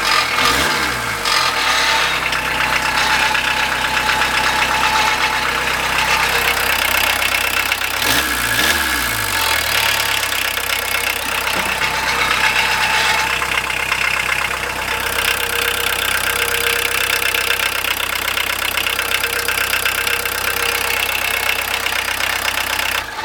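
VW T3 JX 1.6-litre four-cylinder turbodiesel engine running after a cold start following a long standstill, blipped briefly near the start and again about eight seconds in, otherwise idling, then cut off suddenly at the end. The exhaust downpipe is rusted loose from the exhaust and has a small hole, but the engine runs decently.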